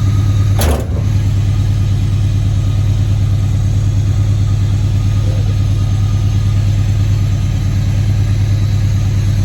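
Car engine running steadily at idle: a loud, even, low drone that does not rise or fall. There is one brief thump just under a second in.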